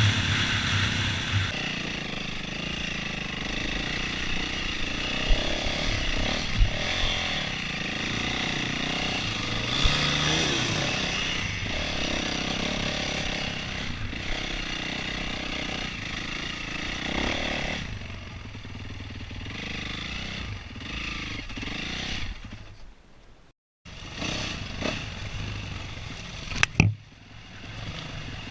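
Dirt bike engine running and revving up and down as it is ridden, its pitch rising and falling. The sound cuts out completely for a moment near the end, and a sharp knock follows a few seconds later.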